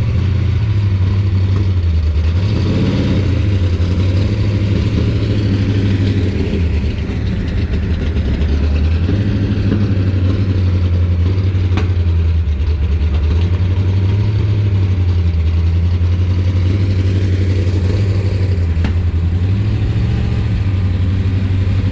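Loud car engine idling, its low note wavering up and down every few seconds.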